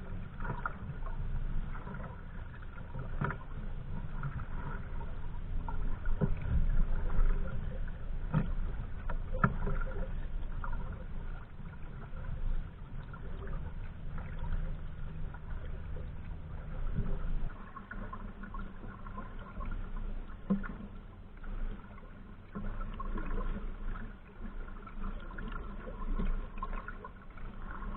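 Kayaks being paddled on a river: irregular paddle-stroke splashes and water trickling, over a steady low rumble.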